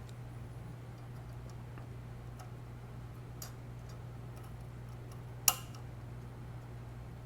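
Scattered small clicks and taps from handling the parts of a disco light's colour wheel, with one sharp, louder click about five and a half seconds in, over a steady low hum.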